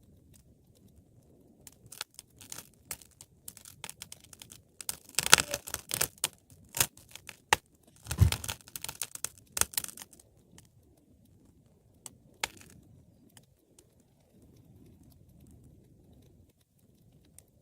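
Wood fire crackling: a cluster of sharp pops and snaps through the middle, loudest about halfway, over a soft low rush of flame, then only scattered faint crackles.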